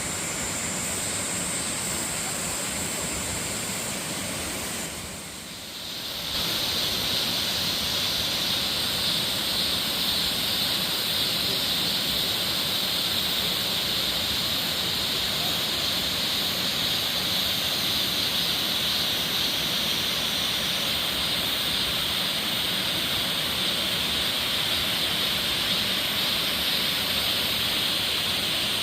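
Waterfall rushing steadily, a continuous hiss of falling water. The sound dips briefly about five seconds in, then comes back steady and a little stronger.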